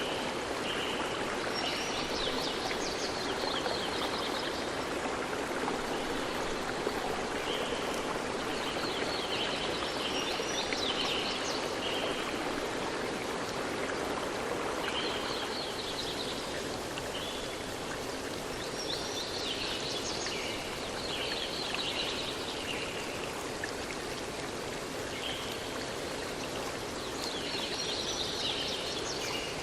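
Steady rush of running water, with a burst of high chirping calls that comes back about every seven to eight seconds.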